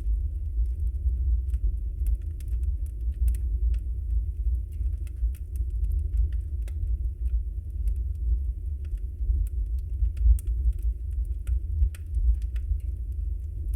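Wood fire burning in a fireplace: a steady low rumble of flames with frequent small, sharp crackles and pops from the burning logs, scattered irregularly.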